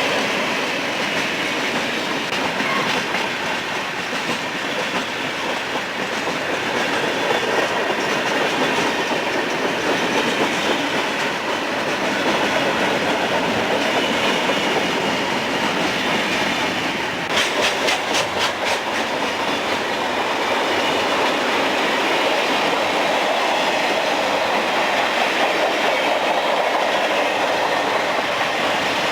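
Railroad cars rolling past, the wheels clacking steadily over the rail joints, with a quick run of sharp clicks about two-thirds of the way through.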